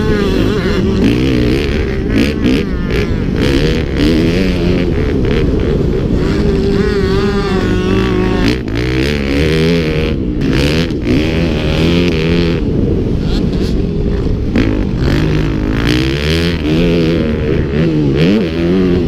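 Several motocross bikes racing, their engines revving up and down as the riders work the throttle and change gear.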